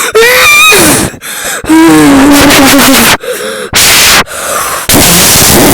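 Loud, distorted vocal outbursts: a high squealing voice at the start, then a wavering held moan, then bursts of harsh clipped noise near the end.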